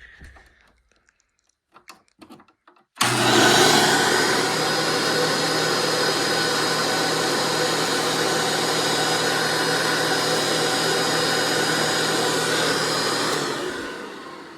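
Hoover Runabout Deluxe vacuum cleaner switched on about three seconds in after a few small clicks, its motor running steadily with a thin high tone over the rush of air. Near the end it is switched off and the motor winds down.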